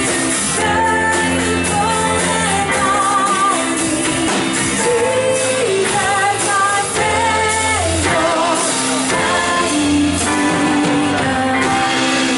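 Church worship band playing a song with voices singing the melody over sustained instrument chords.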